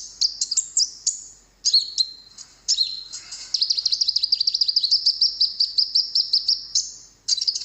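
Olive-backed sunbird (kolibri ninja) singing: high, sharp chirps and quick notes, then a long, rapid trill from about three and a half seconds in until near the end, and more sharp chirps after it.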